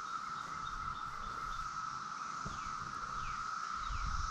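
Chorus of Brood X periodical cicadas: many males calling at once in a steady, unbroken drone.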